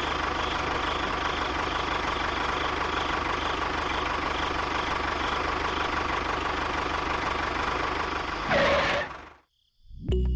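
A small motor running steadily with a faint pulsing whine, briefly louder near the end before it cuts off abruptly.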